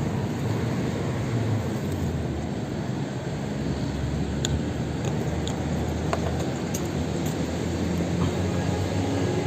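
Steady low rumble and road noise from a moving electric motorbike, with a few faint clicks.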